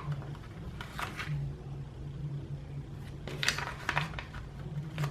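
Planner stickers being peeled off their backing sheet and pressed down on paper: short crinkly rustles about a second in and again a couple of times around three and a half seconds, over a steady low hum.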